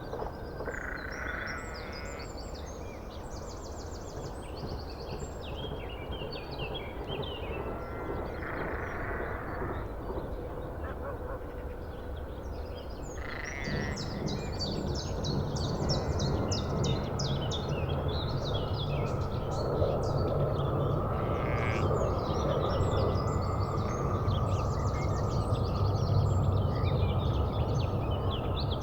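Many birds chirping and calling together over a steady low rumble. The rumble grows louder about halfway through.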